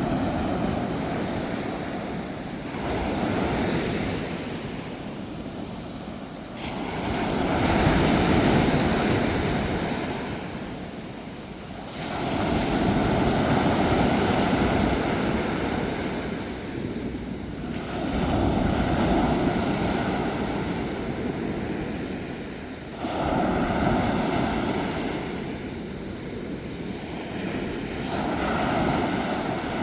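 Sea waves breaking on a shore, a surge of surf about every four to five seconds, each one swelling and then washing back.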